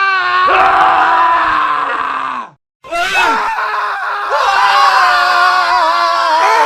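Men screaming in a cut-together montage: one long held scream breaks off about two and a half seconds in, and after a brief silence another long scream follows.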